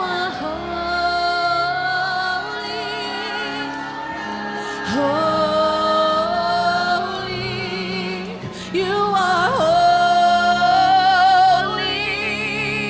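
Live worship song: a woman singing long held notes with a wavering vibrato over instrumental backing.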